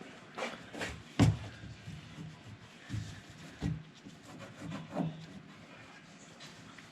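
Hand-work noises on a truck door: a series of short knocks and clicks with rubbing scrapes between them. The loudest knock comes just after a second in.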